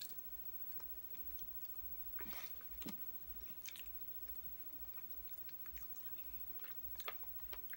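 A person chewing a mouthful of chicken alfredo pasta close to the microphone, with a few faint short clicks.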